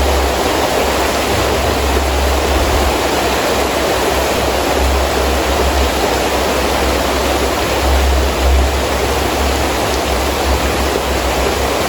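Heavy rain falling steadily, with gusts of wind adding a low rumble that swells and fades, strongest at the start and again about eight seconds in.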